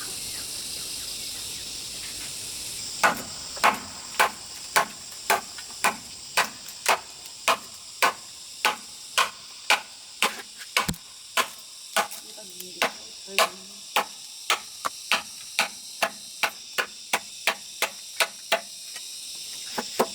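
A hand tool striking in a steady rhythm, about two blows a second, starting about three seconds in. A constant high drone of insects runs underneath.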